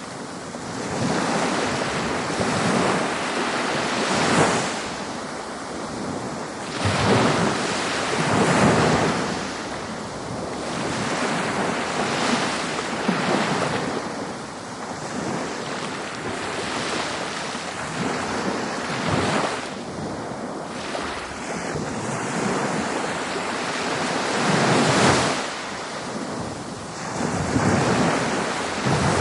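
Ocean waves washing onto a beach, a continuous surf hiss that swells with each breaking wave every few seconds and then ebbs, with wind noise mixed in.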